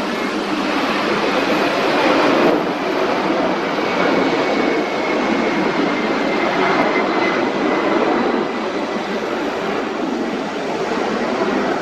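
Jet engines of an ANA Cargo Boeing 767 freighter, heard as a loud, steady rushing noise with a faint high whine that sinks slightly in pitch partway through.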